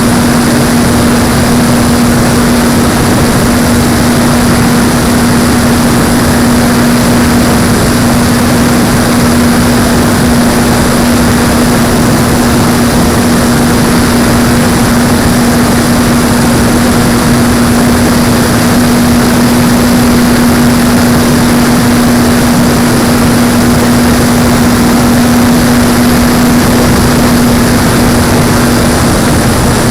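Electric motor and propeller of an Apprentice S 15e RC trainer plane running at a constant pitch, a steady whine, under loud rushing wind noise.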